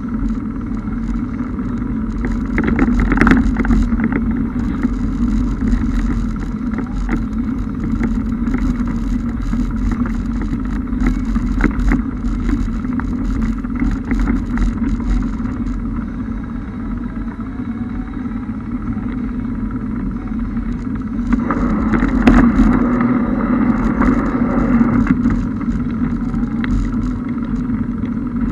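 Car driving through deep floodwater in heavy rain: a steady engine and road drone under a hiss of water and rain, swelling twice, briefly about three seconds in and again for a few seconds about three quarters of the way through.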